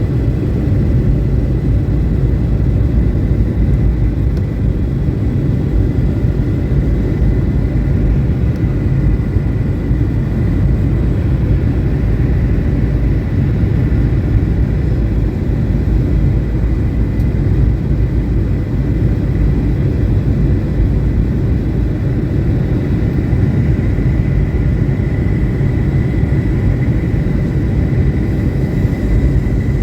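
Steady low rumble of engine and airflow noise inside the cabin of a Boeing 737-800 airliner, with a faint steady high whine above it.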